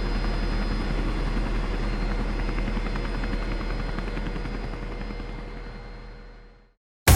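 Helicopter running steadily, its rotor and engine noise fading out over the last couple of seconds.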